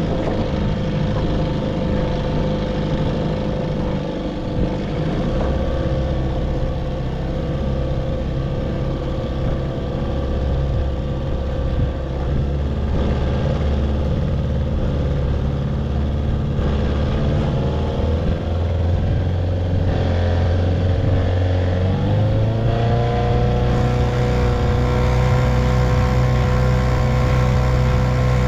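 1958 Evinrude 3 hp two-stroke outboard motor running steadily. Its note slowly drops a little, then rises about three-quarters of the way through as the motor speeds up, and holds at the higher speed.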